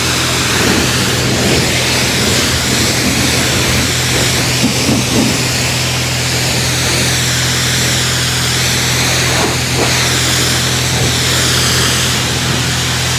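Steady hiss of water spraying from a hose while rinsing a truck, with a constant low hum underneath.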